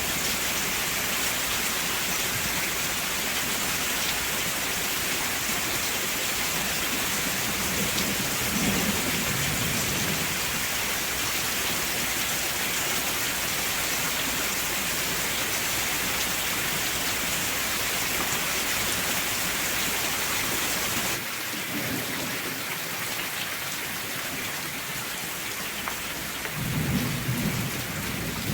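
Steady heavy rain hissing, with low rumbles of distant thunder about eight seconds in and again near the end. The rain turns a little quieter about two-thirds of the way through.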